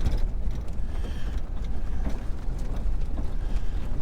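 Low road rumble inside a moving vehicle, with small creaks and rattles from the cabin on a bumpy road.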